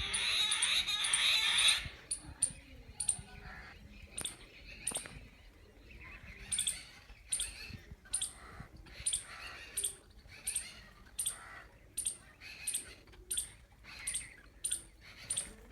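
A flock of babblers calling: dense, harsh chattering for about the first two seconds, then short high calls repeating roughly twice a second.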